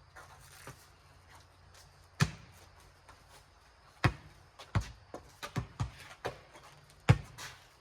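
A rubber four square ball bouncing and being struck by hands: sharp thuds at irregular intervals, loudest about two seconds in and near the end, with a quick run of them in between.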